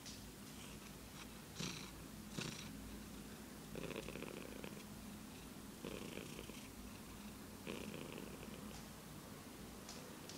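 Cat purring in slow, pulsed cycles of about a second each, three of them about two seconds apart from about four seconds in, with a couple of faint clicks before them.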